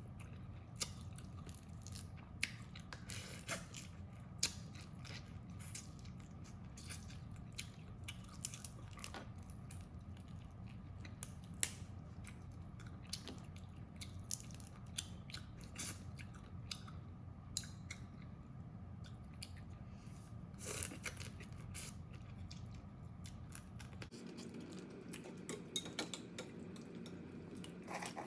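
Crab shells cracking and crunching in scattered sharp clicks as they are bitten and picked apart, with chewing between. A steady low hum runs underneath and drops away near the end.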